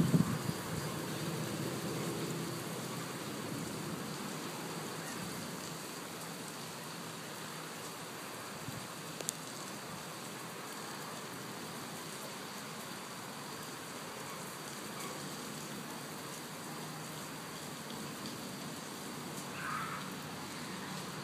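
Steady rain falling on a wet street and pavement, an even hiss, with a brief low thump right at the start.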